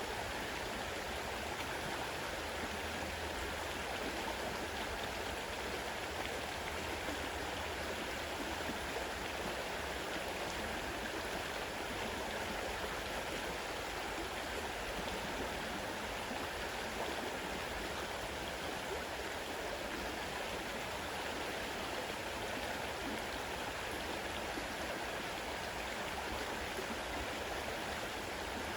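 Fast-running river: a steady rush of flowing water that stays even throughout.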